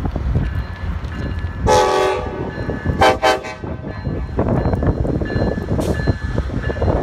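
Metrolink commuter train sounding its horn twice, two short blasts about a second apart, over the steady rumble of the train. Two short blasts is the signal that a train is about to move off.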